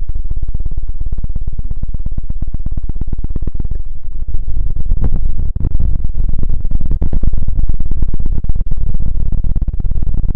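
Loud, dense crackling and rumbling right on an ASMR microphone, pushed close to overload: a rapid run of clicks, heavy in the low end, that gets a little louder about four seconds in.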